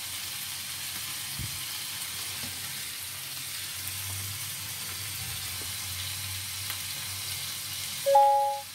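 Chicken and vegetable skewers sizzling steadily as they fry in a pan, with a faint knock about a second and a half in. Near the end a short, loud two-tone beep sounds.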